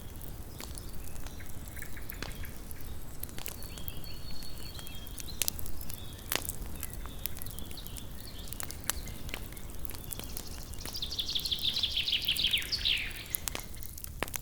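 Small wood campfire crackling, with scattered sharp pops over a low steady rumble. Twice in the first half a faint high whistling tone is held briefly, and near the end a high, rapidly pulsed animal call lasts about two seconds.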